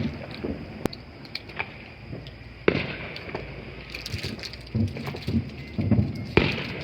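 Scattered fireworks bangs and pops at irregular intervals, the sharpest a little under three seconds in and another just past six seconds.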